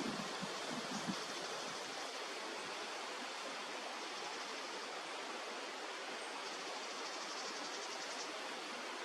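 Steady rushing of flowing river water. Wind buffets the microphone for the first second or two, then drops away.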